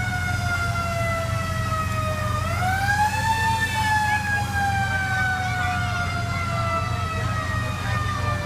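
Fire engine siren winding down slowly, swept back up in pitch about two and a half seconds in, then winding down again, over the steady low rumble of the truck's engine.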